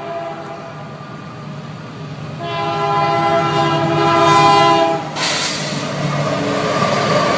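A train's air horn holds a chord of several tones, blasting louder for a couple of seconds before cutting off. A loud rushing rumble of the train running by at speed follows.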